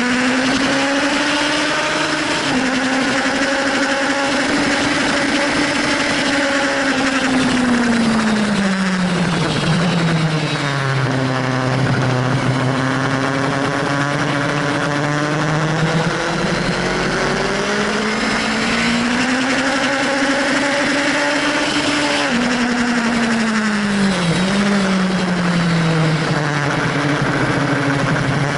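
Sport motorcycle engine at speed on a race track, heard from on board: its pitch climbs while accelerating, drops suddenly at gear changes and falls away while slowing for corners. A dense rush of wind noise runs underneath.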